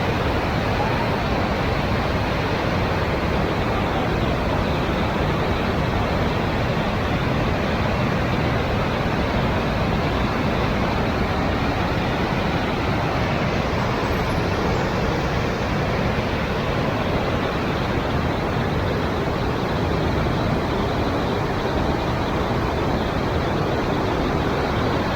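Steady, loud rushing noise of a river boat ride through fast current, water and wind on the microphone, with no distinct engine note or separate events.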